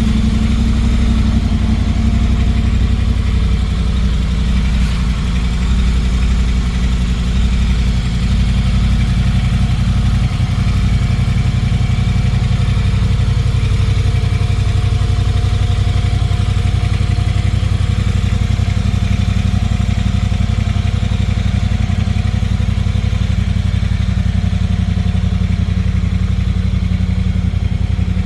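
2021 Triumph Speedmaster 1200's 1200 cc parallel-twin engine idling steadily.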